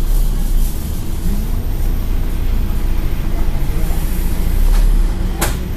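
Scania N113 bus's straight-six diesel engine running, heard from inside the bus as a steady low rumble. A single sharp clunk comes near the end.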